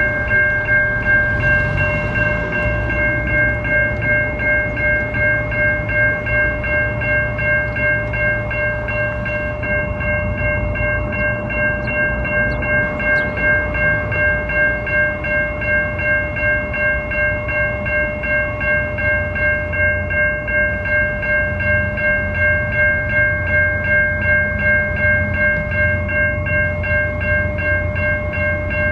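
Level-crossing warning bell ringing steadily at about two strikes a second, over the low rumble of a train.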